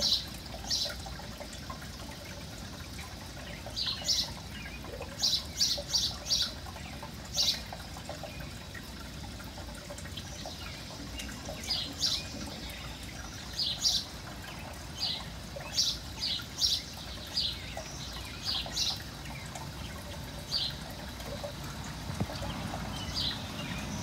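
Small bird chirping: short high chirps that come singly and in quick runs of three or four, over a steady background hiss.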